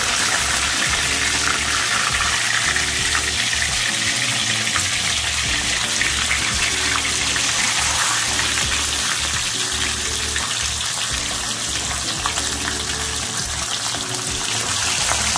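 Pork chops sizzling in hot oil, a steady frying hiss, with background music underneath.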